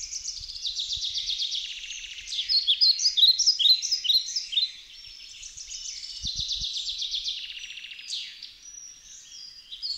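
Small songbirds singing: fast high trills and quick sweeping chirps from several birds overlapping, loudest a few seconds in.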